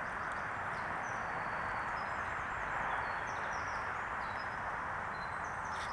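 Steady rushing wind and road noise from riding a bike, with birds chirping in many quick, short calls over it.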